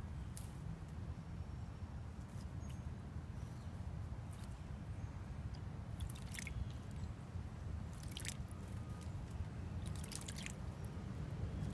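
Small songbirds splashing in a shallow bird bath: several short, scattered splashes and wing-flicks, the biggest clusters a little past the middle and near the end, over a steady low background rumble.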